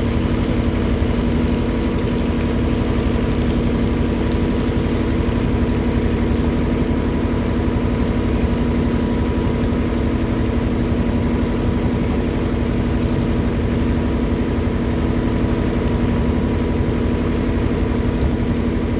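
River boat's engine running at a steady pace, an even drone with a constant hum.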